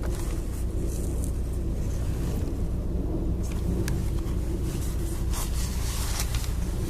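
Car driving through city streets: a steady low rumble of engine and road noise, with brief swells of hiss about halfway through.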